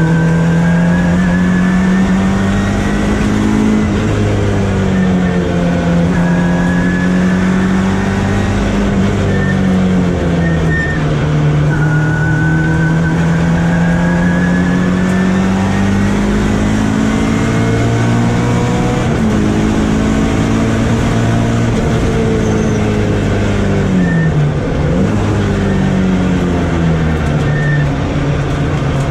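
Mk1 Volkswagen Golf race car's four-cylinder engine heard from inside the car, running hard with its revs rising and falling and dropping sharply several times. A thin high whine climbs along with the revs.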